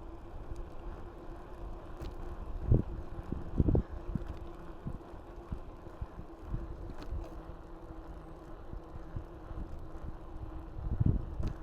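Mountain bike riding along a path: low rumble of the tyres and wind buffeting the camera's microphone, with a faint steady hum and a few low thumps as the bike goes over bumps, about 3 and 4 seconds in and near the end.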